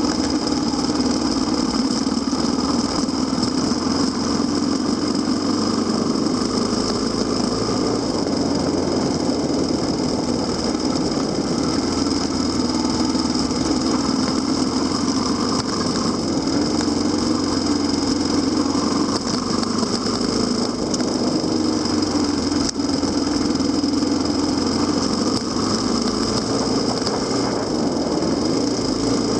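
Kawasaki KLX250SR dual-sport motorcycle's single-cylinder four-stroke engine running steadily as the bike rides along. Its pitch rises and falls gently with the throttle.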